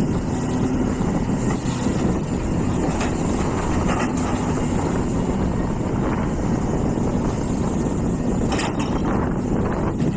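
Hitachi EX450 hydraulic excavator's diesel engine running steadily under working load, with a few brief knocks about 3, 4 and 8.5 seconds in.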